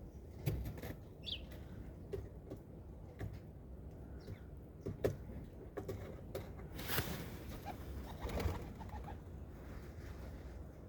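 Pigeons in a city flock cooing and moving about, with scattered sharp clicks, a noisy wing flutter about seven seconds in, and a few short high chirps from smaller birds, over a steady low background rumble.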